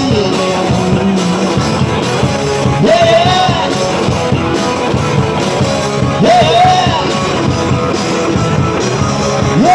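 Live rock and roll band playing, with a singer's long sliding notes over the band.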